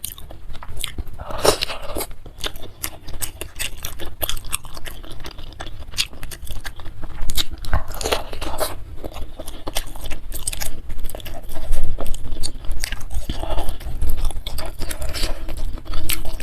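Close-miked chewing of spicy bakso with noodles: many quick, wet mouth clicks, with a few louder mouthfuls along the way.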